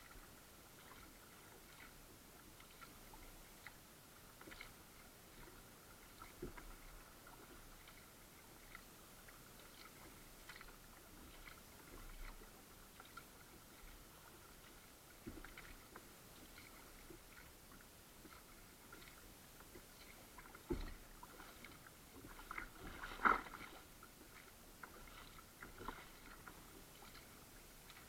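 A kayak paddling quietly: soft paddle splashes and drips at irregular intervals, with a louder splash about 23 seconds in.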